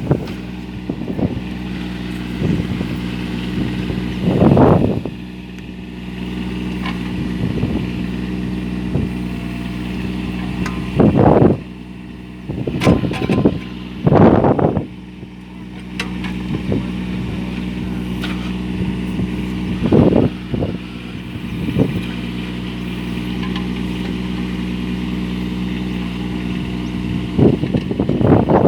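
Mini tractor engine running steadily, with several short, louder bursts over it now and then.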